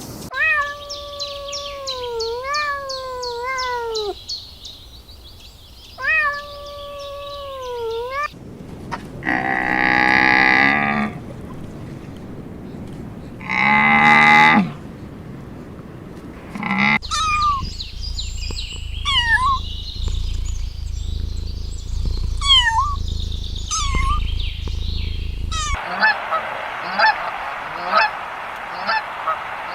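Farm birds calling in a run of short clips cut together: bending, honking calls at first, two loud drawn-out calls near the middle, then short chirps over a low wind-like rumble, and a burst of rapid short calls near the end.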